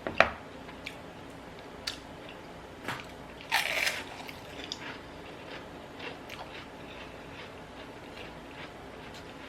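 Close-miked eating sounds: crunchy bites and chewing of a salad. A sharp click comes just after the start, and a short crunch comes at about three and a half seconds.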